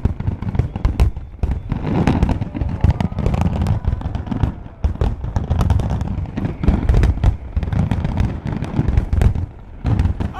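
Fireworks grand finale: aerial shells bursting in rapid, overlapping succession, a dense barrage of bangs over a continuous low rumble, easing briefly just before the end.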